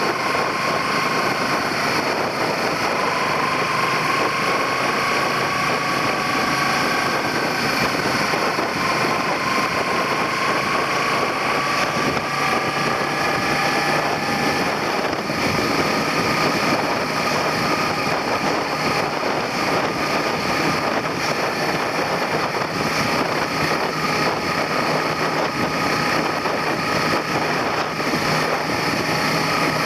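Suzuki SV400 V-twin engine running under way, heard from the handlebar over steady wind and road noise. Its note climbs slowly, changes pitch about halfway through, then holds steady.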